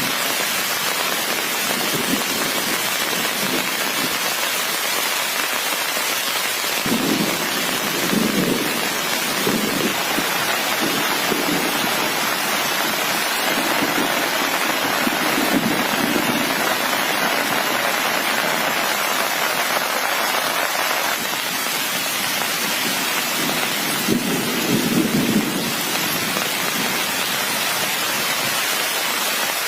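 Steady rain falling, with low rolls of thunder rumbling in three times: about a quarter of the way in, around the middle, and again near the end.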